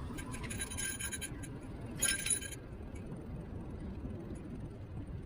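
Niu KQi3 Pro electric scooter riding with a steady low rumble of wheels and wind, broken twice by short bursts of metallic rattling and clinking, the second burst the louder.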